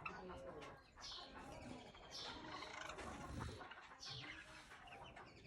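Mixed flock of Java sparrows and zebra finches calling: short falling chirps about every two seconds over softer, continuous chattering calls.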